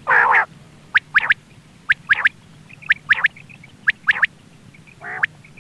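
Common quail song used as a hunting lure call: three short, sharp notes in quick succession, repeated about once a second. A harsher, longer note comes at the start and another near the end.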